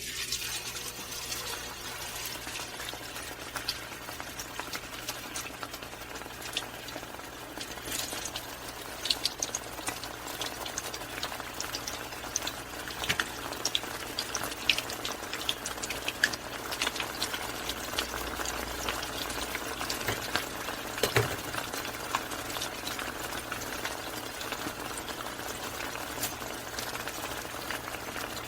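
Hot oil sizzling steadily around deep-frying quail, with many sharp crackles and pops.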